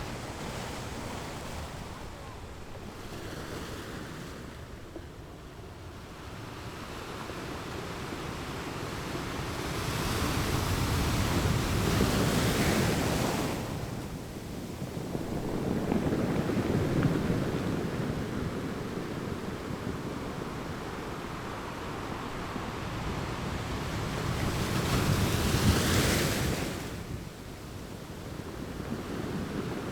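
Waves washing in with wind: a steady rush that swells three times, about ten, sixteen and twenty-five seconds in, the last surge falling away abruptly.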